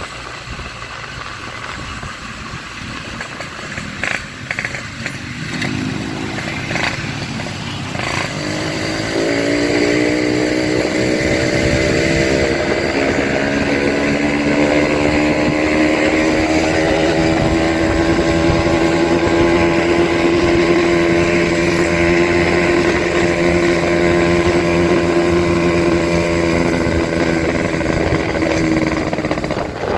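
Motorcycle engine through a gutted 'bobokan' exhaust, revved up over a few seconds and then held at high revs for about twenty seconds before dropping back near the end.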